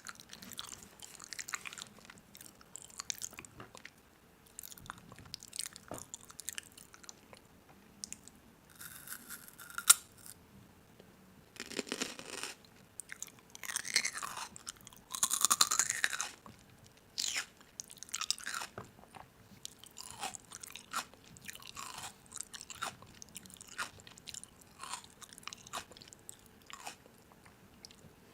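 Crisp food crunching in a long run of irregular crackles and clicks, with a sharp click about ten seconds in.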